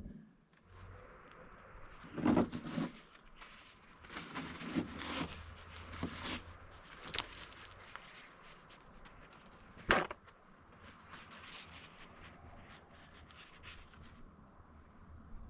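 Scattered knocks, rustles and clicks of things being handled, with one sharp click about ten seconds in.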